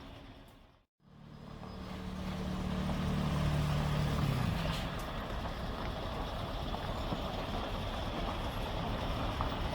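Heavy truck engine running steadily, with a low hum. The sound fades out to silence about a second in and fades back in; the hum's low tones drop away a little after four seconds, leaving a steady rumble.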